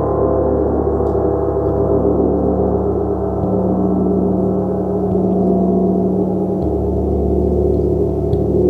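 A gong played continuously: a dense, steady sustained wash of many overlapping tones, its deepest tones shifting every second or two as the playing goes on.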